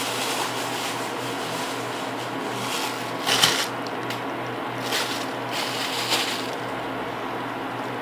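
Steady electric fan hum, with a few brief soft rustles about three and a half, five and six seconds in, from hands working a lump of biscuit clay.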